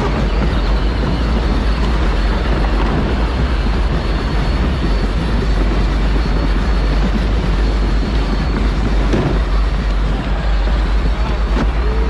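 Power Wheels ride-on car driving, its electric drive and wheels running as a steady noise heavy in deep rumble.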